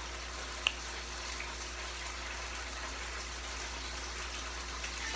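Water running steadily from a tap, with a single sharp click under a second in.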